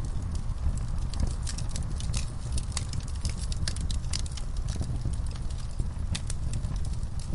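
Wood fire burning in a fireplace: a steady low rumble of flame under frequent sharp, irregular crackles and pops from the burning logs.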